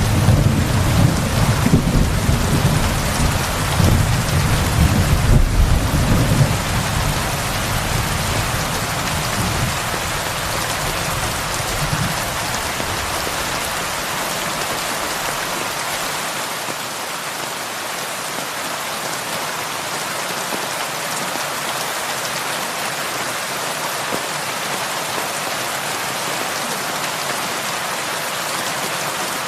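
Heavy rain falling steadily on a roof, an even hiss. For the first dozen seconds a deep rolling rumble of thunder runs under it, then fades away, leaving rain alone.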